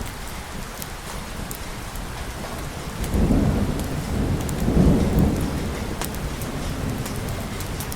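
Steady rain falling, with a rumble of thunder that rolls in about three seconds in, swells again near five seconds, then fades.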